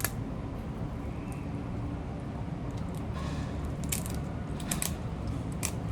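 Lobster shell being handled and cracked: scattered sharp clicks and cracks, a few times, over a steady low hum.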